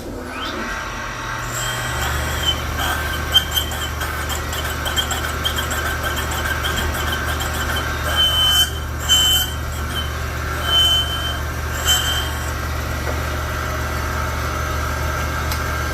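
A rod cap cutter starting up and running with a steady hum while it cuts a couple thousandths off the parting faces of connecting-rod caps. Several short high squeals come from the cut in the second half.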